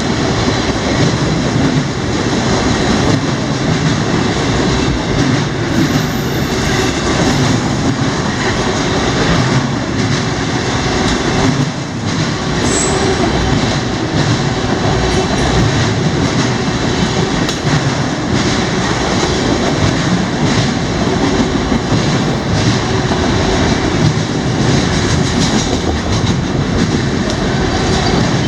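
Freight train cars rolling past at close range: a steady loud rumble of steel wheels on rail with rapid clicks over the rail joints.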